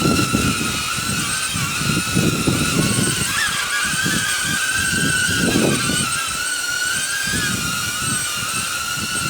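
Quadcopter drone's propellers whining steadily, the pitch wavering slightly as the drone holds its hover against gusts. Strong wind buffets the microphone in irregular low rumbles.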